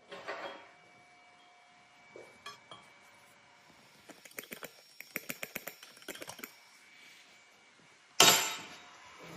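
Pieces of metal clinking and tapping against each other, a few light clinks, then a quick run of many sharp clinks. Near the end a sudden loud noisy burst fades away over about a second.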